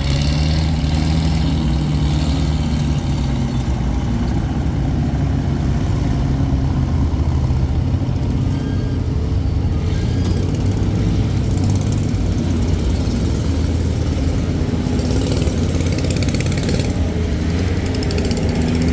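An engine running steadily at a constant speed, a continuous low drone.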